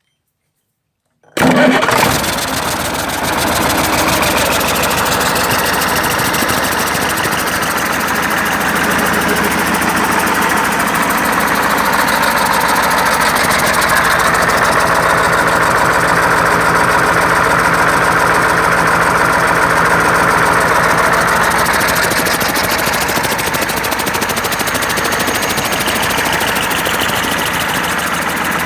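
KamAZ diesel engine starting about a second in and then running steadily at idle.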